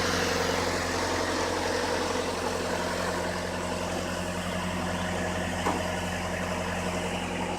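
An engine running steadily at idle, a low even drone with a short click about three quarters of the way through.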